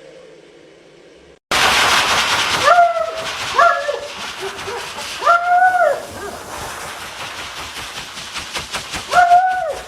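A dog gives four short howl-like calls, each rising and then falling in pitch, the third the longest. Behind them is a loud, steady rushing hiss that starts suddenly a second and a half in.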